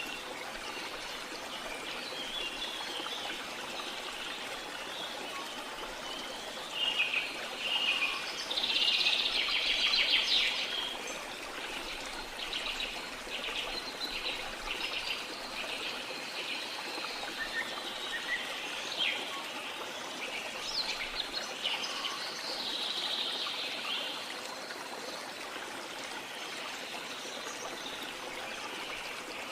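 Small birds chirping and singing over a steady rush of water. The birdsong is loudest from about a quarter of the way in, with a run of quick repeated notes, and picks up again past the middle.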